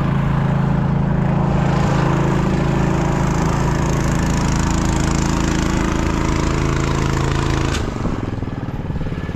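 An engine running steadily at a constant pitch. About eight seconds in a sharp click is heard, and the engine sound drops to a lower, rougher note.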